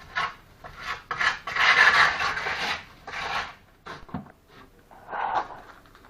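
A series of rasping strokes, typical of a mason's trowel scraping and spreading mortar on brick. The longest and loudest stroke runs from about one to three seconds in.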